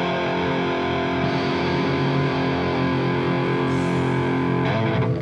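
Distorted electric guitar holding a chord that rings on steadily, with the notes shifting slightly near the end.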